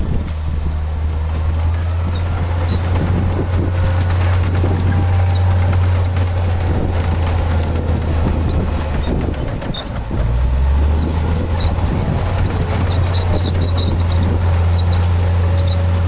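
Heavy diesel engine of earthmoving machinery running steadily under load. Its note dips and shifts briefly about ten seconds in. Faint scattered high clicks run over the top.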